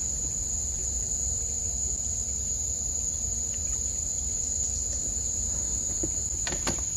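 Crickets chirring in a steady, high-pitched drone, over a low rumble, with a couple of short knocks near the end.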